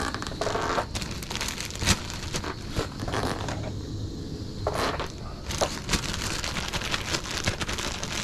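Rustling and crinkling as fish fillets are coated in seasoned flour, with scattered light clicks and taps.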